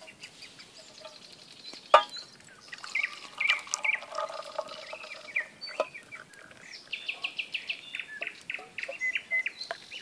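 A small bird chirping in quick repeated series of short notes, busiest in the second half. A single sharp clink about two seconds in, and a weaker one near six seconds.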